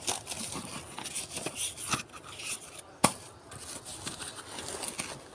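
Crinkling and rustling handling noises made up of irregular crackles and clicks, with one sharp click about three seconds in.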